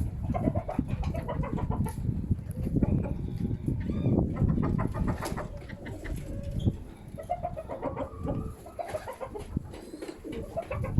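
Baku fighting pigeons cooing in repeated short calls, over the low rumble of strong wind buffeting the microphone.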